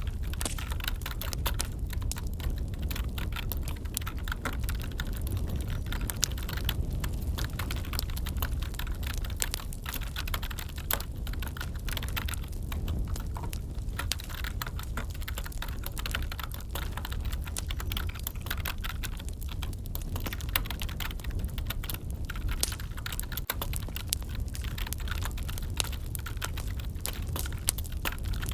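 Computer keyboard typing, a steady run of quick key clicks, layered over a crackling wood fire with a low, steady rumble beneath.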